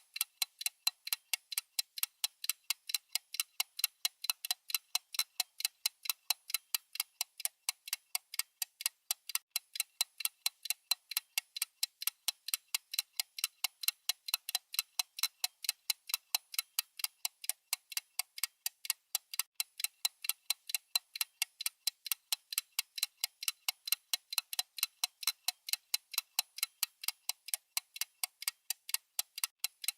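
Clock-style ticking sound effect: quick, evenly spaced, sharp ticks at a steady rate, keeping time for a countdown timer.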